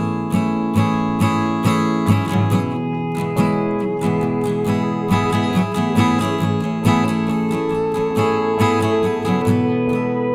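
Acoustic guitar strummed in a steady rhythm, playing music.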